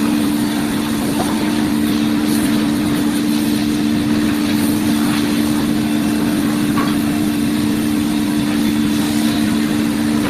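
CNC router milling a wooden face board: a steady machine hum of two close low tones over a constant wash of noise.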